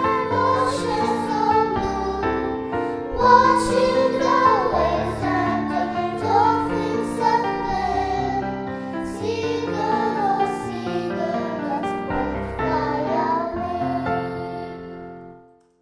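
A Christian song: singing over instrumental accompaniment, fading out to silence near the end.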